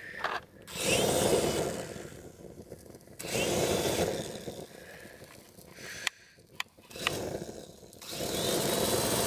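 Gasoline-soaked toy RC helicopter burning while switched on: surges of rushing noise, with a few sharp clicks about two-thirds of the way through.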